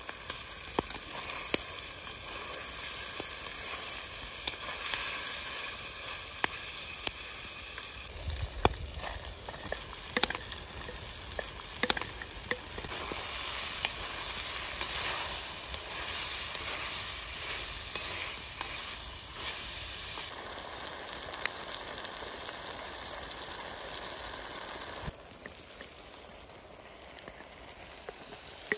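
Chunks of meat frying and sizzling in a cast-iron kazan over a wood fire, stirred with a wooden spatula, with frequent sharp clicks over the steady sizzle. The sizzle drops in level near the end.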